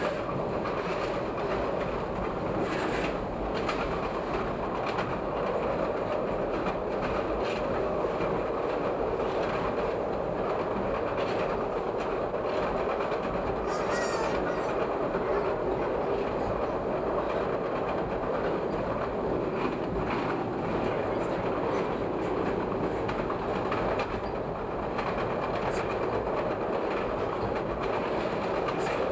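Chicago 'L' rapid-transit train running along elevated track: a steady rumble with occasional clicks of the wheels over rail joints.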